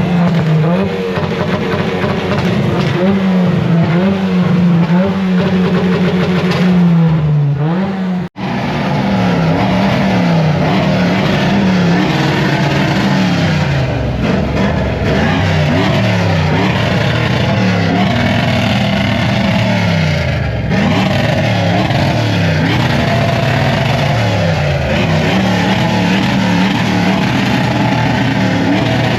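A car engine revved hard, its pitch climbing and falling again and again, with a brief break about 8 seconds in.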